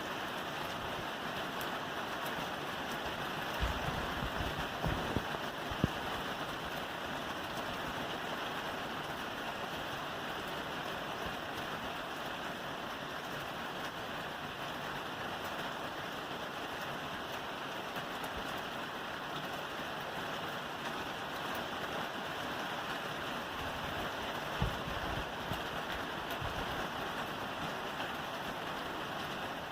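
Steady rain falling on a roof, an even dense patter, with a few dull low thumps about four to six seconds in and again near the end.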